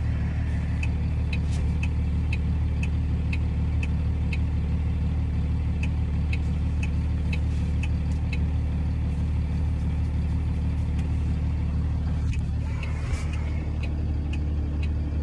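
Tow truck engine idling steadily, heard from inside the cab, with a light regular ticking about twice a second through the first half.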